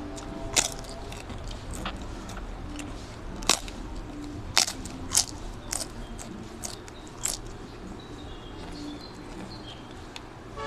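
Crunching and chewing of cassava flatbread (salbaro): about eight sharp, brief crunches spread over the first seven seconds, then quieter chewing.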